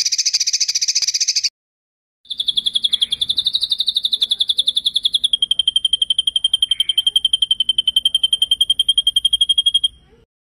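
Recorded songbird giving rolling trills of rapid, evenly pulsed high notes, the 'ngeroll' rolling song used in songbird training recordings. A short trill ends about a second and a half in, then after a brief pause a long trill of about eight seconds steps down in pitch partway through and stops near the end.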